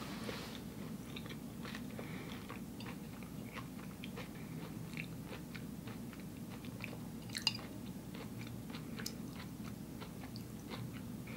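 Close-up chewing of a mouthful of raw vegan nori sushi: soft wet clicks and small crunches. There is one sharper click about seven seconds in, over a low steady hum.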